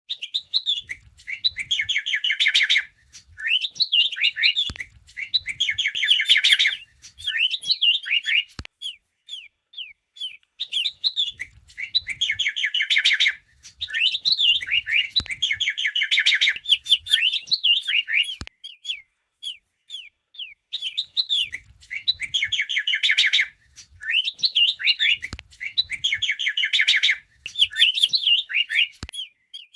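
A songbird singing in bouts of rapid chirps and warbled notes, each bout a few seconds long with short pauses between. The same run of phrases comes round again about every ten seconds.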